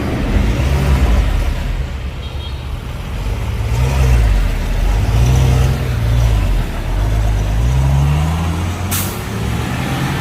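Heavy diesel engine revving up and down again and again, its pitch rising and falling every second or two, with a short sharp hiss about nine seconds in.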